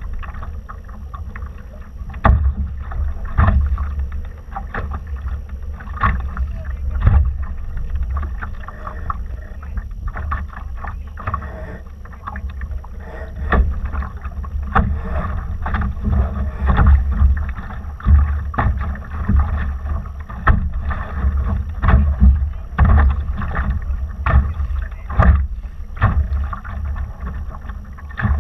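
A Laser dinghy moving through the water: water rushing and slapping against the hull in frequent, irregular splashes, over a steady low rumble of wind buffeting the microphone.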